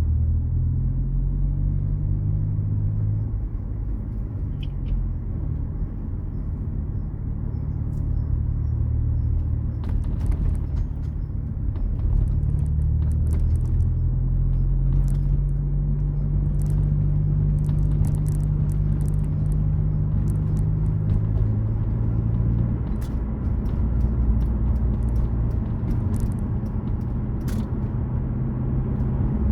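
Car engine running, its low drone shifting up and down in pitch as the revs change, with scattered sharp ticks over it.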